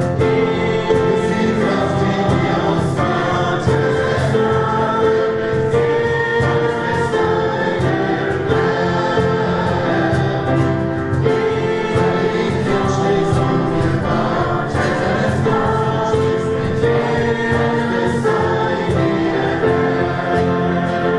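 A group singing a worship song in chorus, with instrumental accompaniment.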